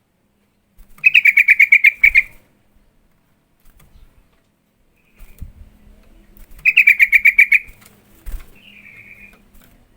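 Yellow-vented bulbul (trucukan) calling: two loud bursts of rapid chattering notes, each lasting about a second and a bit, with a softer short warble near the end.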